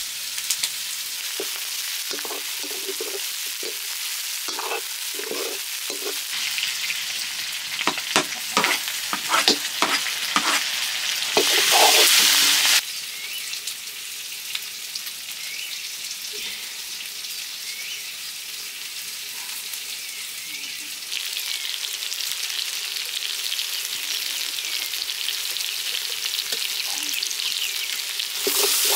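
Chicken pieces frying in oil in a large wok over a wood fire, sizzling steadily. Between about six and twelve seconds in, a ladle knocks and scrapes against the pan as the meat is stirred. The sizzle is loudest just before it drops off suddenly about thirteen seconds in, and grows louder again near the end.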